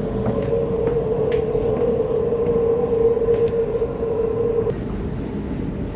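Sydney Trains electric train running with a low rumble and faint rattles, under a steady whine that cuts off suddenly about three-quarters of the way through, as the train pulls into the station.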